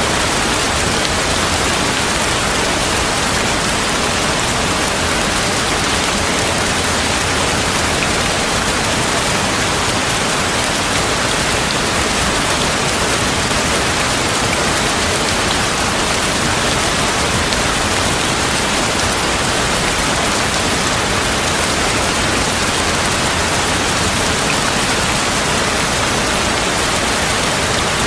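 Steady heavy rain, an even hiss of falling water with no breaks.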